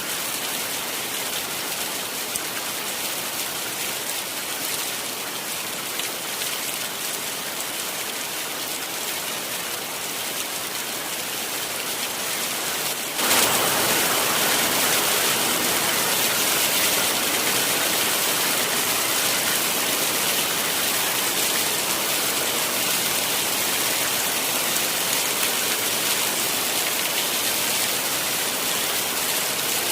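Heavy rain falling steadily, an even hiss of drops. About halfway through it suddenly becomes louder and fuller, then holds steady.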